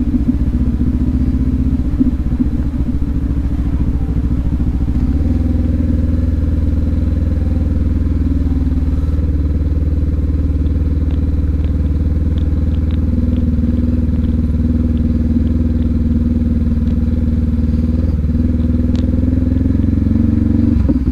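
Motorcycle engine running steadily at low speed on a trail ride. The engine note changes and settles lower about five seconds in, with a few light clicks later on.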